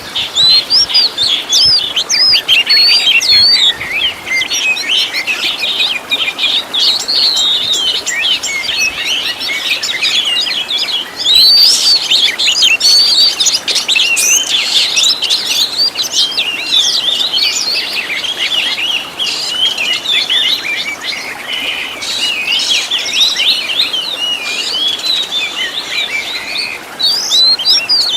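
Oriental magpie-robin (kacer) singing a continuous, varied song of rapid high chirps, trills and whistles, packed with mimicked calls of other birds.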